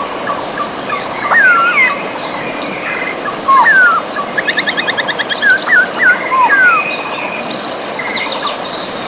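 Several birds singing and calling over the steady rush of river water: repeated short falling whistles, a fast run of rapid notes about halfway through, and scattered high chirps.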